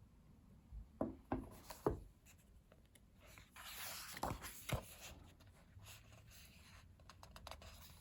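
Pages of a photobook being handled and turned. There are a few light taps about a second in, then a paper swish with two soft knocks around four seconds in.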